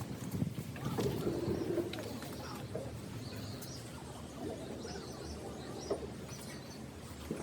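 Birds chirping and calling, scattered short high chirps.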